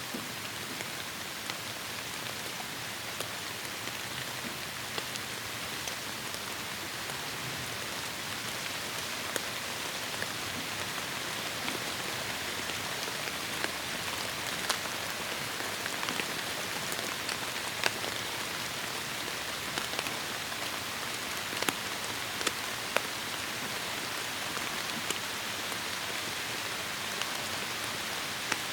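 Heavy rain falling steadily on forest foliage, a dense even hiss with scattered sharper drips and splats of individual drops.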